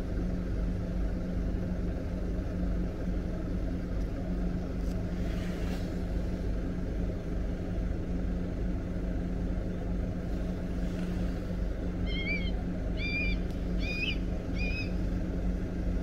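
A steady low rumble with a constant hum; about twelve seconds in, a bird gives four short, clear calls, each rising then falling, just under a second apart.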